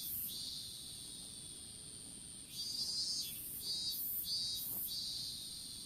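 Field insects calling: one insect keeps up a steady high-pitched trill, while another gives short buzzy chirps, once at the start and then several in quick succession from about two and a half to five seconds in.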